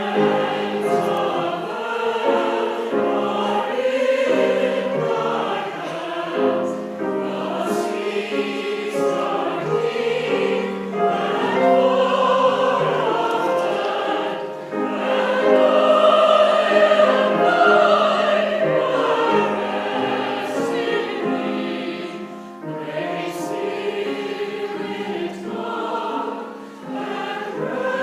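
A choir singing in harmony with long held notes, growing louder about halfway through.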